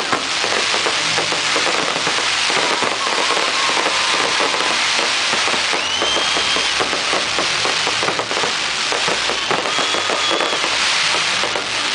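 Fireworks going off in a dense, continuous crackle, with a whistling firework rising and holding its pitch about six seconds in and another whistle about ten seconds in.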